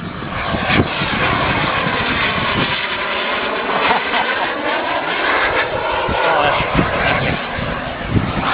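Twin model jet turbines of a quarter-scale RC A-10 Warthog making a low pass, a steady jet whoosh whose tone sweeps up and down as the plane goes by. Wind buffets the microphone with a low rumble.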